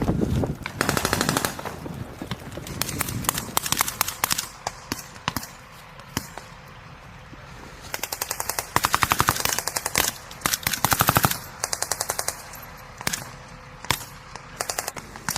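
Automatic gunfire in repeated rapid bursts, the longest about a second and a half just past the middle, with scattered single shots in between.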